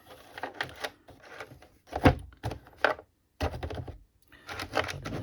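A series of clicks and knocks from a cordless screwdriver being handled, the loudest about two seconds in.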